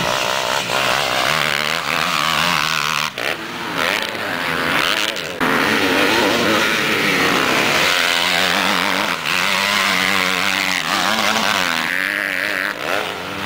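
Several motocross bikes racing, their engines revving up and down as the riders work the throttle, with brief drops in engine note a few seconds in.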